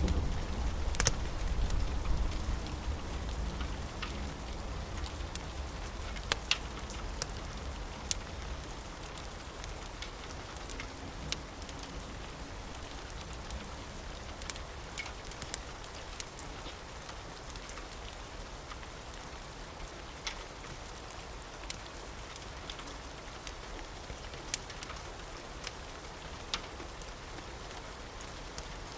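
Steady rain mixed with the sharp pops and crackles of a wood fire, and a deep rumble of thunder dying away over the first several seconds.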